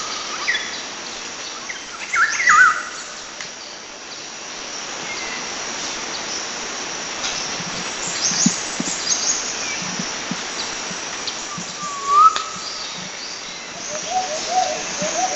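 Several wild birds calling and singing over a steady background of forest ambience: scattered short whistles and high chirps, a rising whistled note about twelve seconds in, and a fast repeated trill starting near the end.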